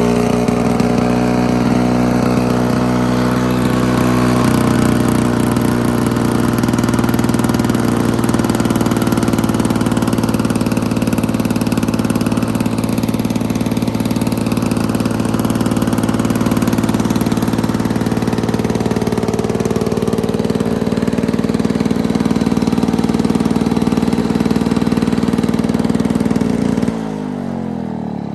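1991 Lawn-Boy 21-inch push mower's two-stroke engine running steadily and loudly, through a muffler that needs replacing. Near the end it is shut off and winds down with falling pitch.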